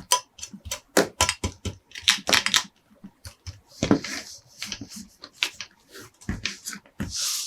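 Hard plastic clicking and tapping at an irregular pace, typical of toy trucks and their plastic packaging being handled. There is a brief rustle about four seconds in and again near the end.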